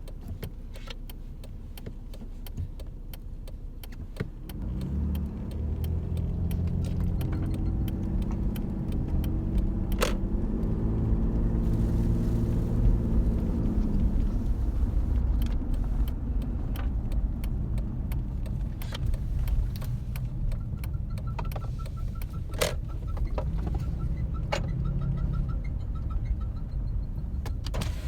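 2006 Jeep Commander's 3.7-litre V6 engine running and speeding up twice, rising and falling in pitch, with a few sharp clicks and a faint pulsing high tone near the end. The owner reports a squeal and a rumble when accelerating, cause unknown.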